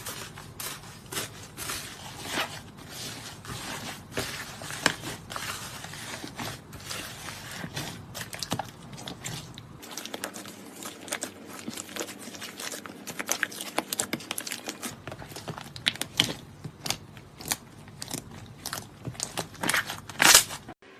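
Slime being squeezed and pressed by hand, giving a dense run of crackling, popping clicks, with a louder cluster of pops near the end.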